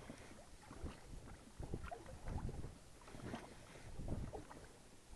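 Small waves lapping against a boat's hull, coming as irregular soft slaps and sloshes.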